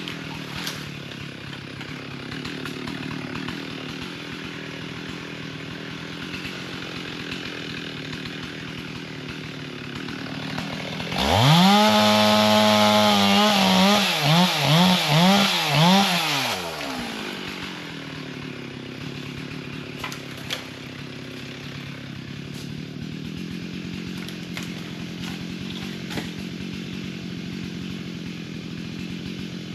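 Two-stroke chainsaw idling. About eleven seconds in it revs to full throttle for a few seconds, is blipped about four times, then drops back to a steady idle.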